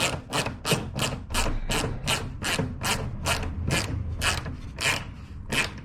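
Plastic nut being tightened by hand onto the windscreen weather strip fitting, a short rasping ratchet-like stroke repeated evenly about three times a second.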